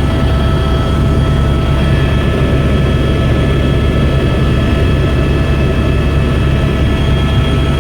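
Helicopter running with a loud, steady low drone, with a faint steady whine of several high tones over it.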